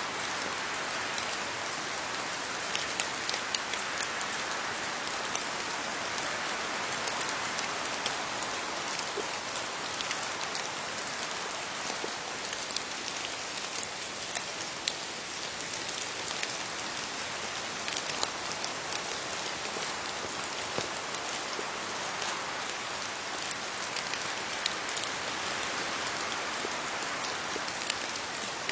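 Steady rain falling on leaves: an even hiss with many individual drops ticking sharply throughout.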